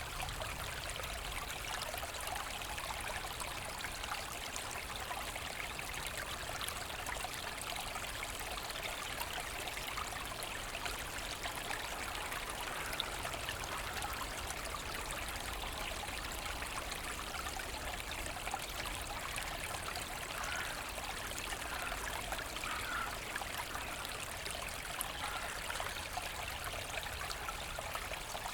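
A forest brook running steadily over stones, splashing and trickling without pause.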